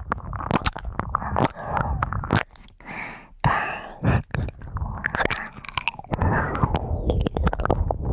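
Ear-cleaning ASMR sounds right at the microphone: scraping and rubbing with many sharp, irregular crackling clicks.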